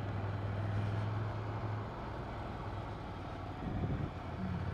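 Ducati Monster 797's air-cooled L-twin engine running while riding, a steady low engine note that eases off about two seconds in and comes back stronger near the end.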